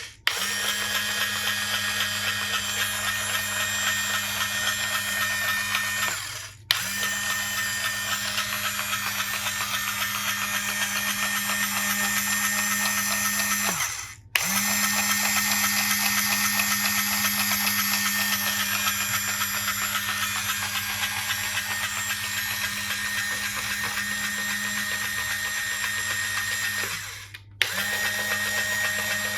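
Toy electric screwdriver's small motor running with a steady whir in long runs. It stops briefly three times, about a fifth of the way in, about halfway and near the end, then starts up again each time.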